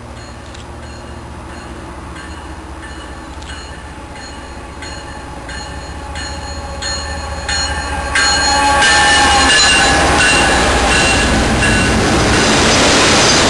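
A train drawing near and passing close, its wheels clicking over rail joints at a steady pace about every 0.7 s with a high squeal from the wheels. It grows louder and becomes loud from about 8 s in.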